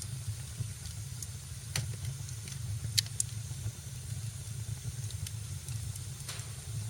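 Wood fire in a fireplace crackling: a steady low rumble and hiss of the flames with scattered sharp pops and snaps, the loudest about three seconds in.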